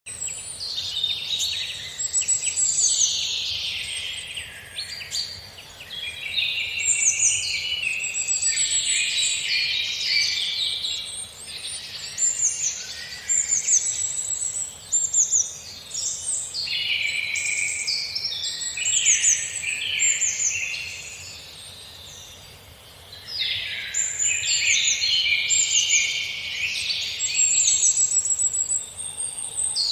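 Several songbirds singing at once in a dense, overlapping chorus of high trills and chirps, with a short lull after about twenty seconds.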